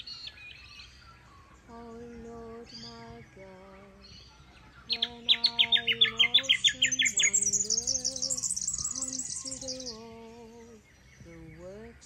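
Birds calling, with a loud, rapid trill of sharp repeated notes (about seven a second) starting about five seconds in, jumping higher in pitch partway through and ending near ten seconds. Underneath runs slow instrumental music with long held notes.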